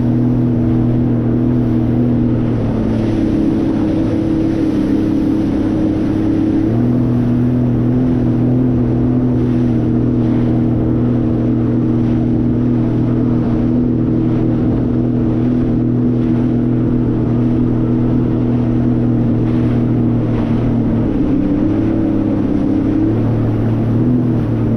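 Jet ski engine running at a steady cruise, with a rush of wind and water. Its pitch drops for a few seconds early on and wavers near the end before settling again.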